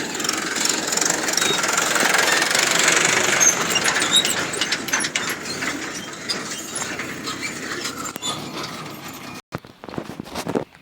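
Hydraulic excavator running at work, a loud, dense machinery noise that peaks a few seconds in and then eases off, cutting out suddenly about nine and a half seconds in.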